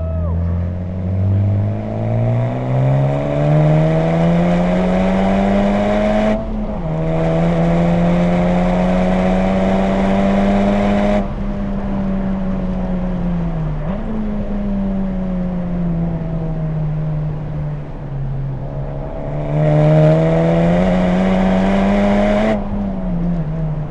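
Honda Civic Type R FK8's turbocharged 2.0-litre four-cylinder through an HKS Legamax exhaust, heard from inside the car under hard acceleration on track. The revs climb, drop sharply with an upshift about six seconds in, climb again, then fall away off throttle about eleven seconds in; after a stretch of steady part-throttle running the revs climb once more and drop off again near the end.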